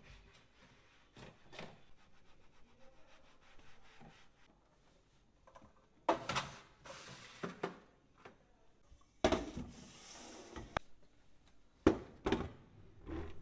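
Household items being handled and moved about in a kitchen: scattered light knocks and taps, two longer stretches of rubbing or sliding about six and nine seconds in, and a couple of sharper knocks near the end.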